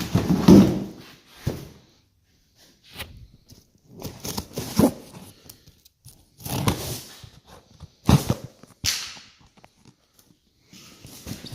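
A package being opened and handled: irregular rustling and scraping bursts, about one every second or two, with short gaps between them.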